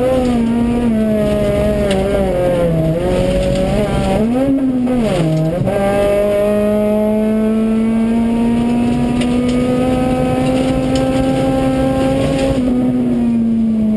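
Honda Civic Type-R rally car's four-cylinder engine heard from inside the cabin at stage pace. Its pitch dips and jumps briefly about five seconds in, climbs slowly and steadily for several seconds, then drops near the end.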